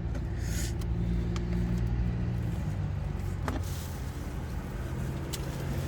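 Car engine idling with a steady low hum, heard from inside the cabin, with a few light clicks and rustles.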